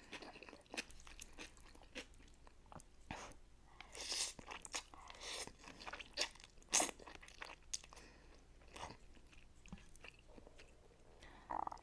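A person eating close to the microphone: chewing and biting mouth sounds in irregular small clicks, with a few louder, longer noisy sounds about four seconds in and near seven seconds.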